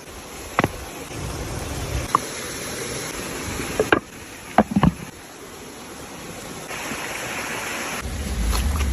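Steady rush of flowing river water, with a handful of brief, sharp chirp-like sounds over it.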